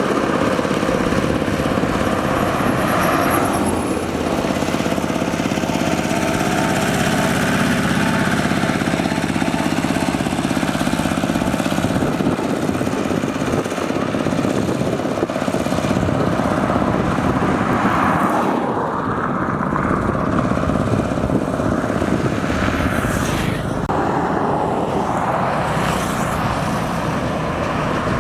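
A motor vehicle's engine running steadily, with its pitch and loudness shifting as it goes.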